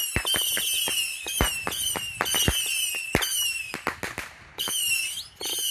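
A Saturn missile firework battery firing in rapid succession: a stream of high whistles, each falling slightly in pitch, broken by many sharp cracks. The whistling stops briefly about four seconds in, then starts again.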